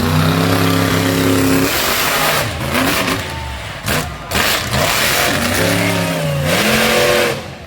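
Monster truck engine revving hard, its pitch climbing twice with loud engine noise in between, then falling off sharply just before the end.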